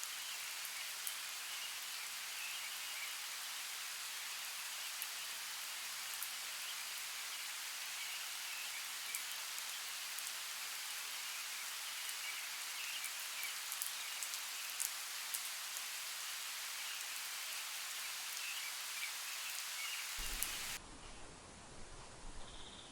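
Steady rain falling, an even hiss with scattered sharper drop ticks. About twenty seconds in it cuts off abruptly to a quieter ambience with a few faint rustles and ticks.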